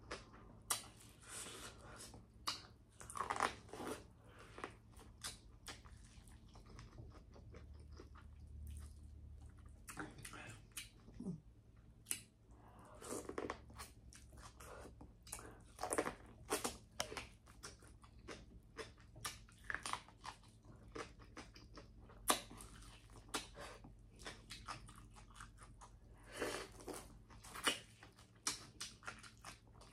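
A person chewing and biting food close to the microphone, with irregular wet smacks and crunchy clicks.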